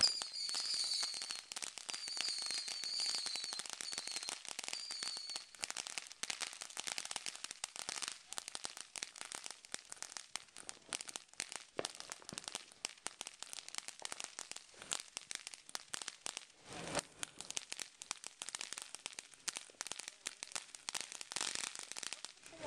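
Ground fountain fireworks spraying sparks with a dense, continuous crackle. A wavering high whistle rides over the crackle for the first five seconds or so.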